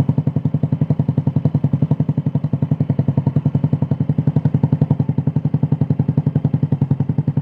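Yamaha X-Ride scooter's single-cylinder four-stroke engine idling through an aftermarket IZZE exhaust muffler, a steady, even, deep exhaust beat at about thirteen pulses a second.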